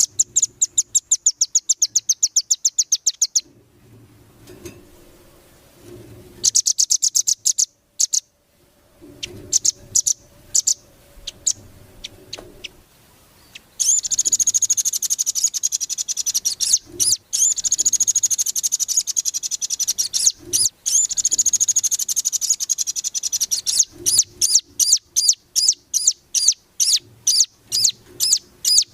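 Songbird singing in high-pitched, rapid trills of repeated notes, with one long continuous trill of about ten seconds in the middle and separate chipping notes, about three a second, near the end.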